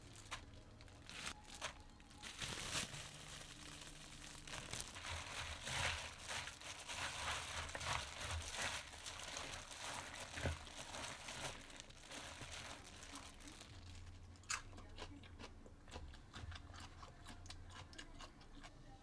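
Crinkling and crunching handling sounds with a dense run of small crisp clicks, thinning out to scattered clicks near the end.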